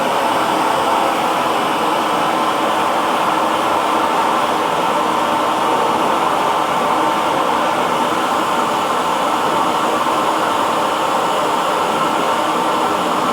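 Hair dryer running steadily, a constant whoosh of blown air with a faint motor hum and no change in speed.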